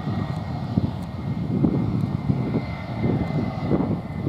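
Airbus A320 jet engines with a steady high whine, under gusty wind rumbling on the microphone.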